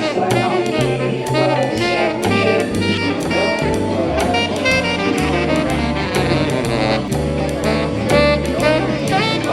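Brass band jazz: saxophone and brass playing over a bass line and drums with a steady beat.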